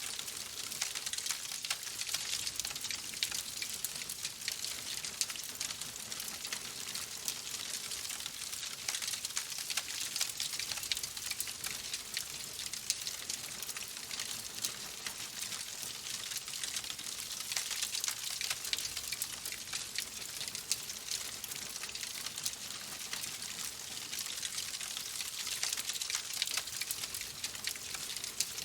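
Steady rain: an even hiss of falling drops with many small ticks through it.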